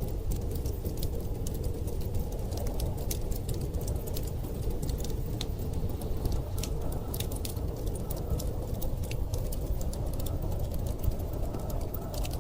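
Wood fire crackling with irregular sharp pops and snaps, over a steady low rumble of storm wind.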